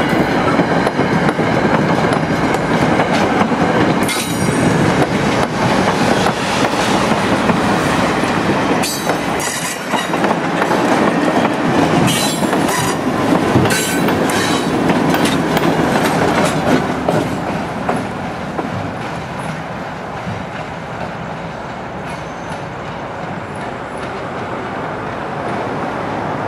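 Passenger train rolling past at a grade crossing: coaches' wheels clattering over rail joints and the crossing, with sharp clicks and some wheel squeal as the trailing Alco C-424 diesel locomotive goes by about midway. The noise then fades as the train moves away.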